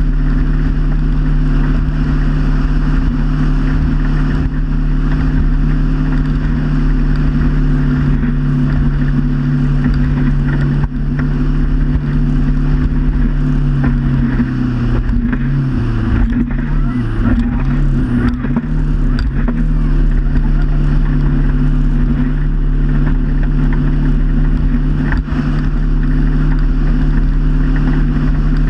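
Motorboat engine running steadily under way, its pitch dipping and wavering for several seconds midway before settling again.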